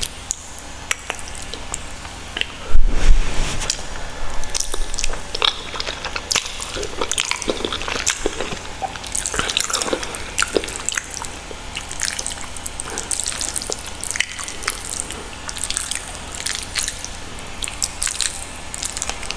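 Close-miked wet, sticky clicks and crackles of saucy Buldak carbonara ramen noodles being worked, irregular throughout. There is a loud low bump against the microphone about three seconds in.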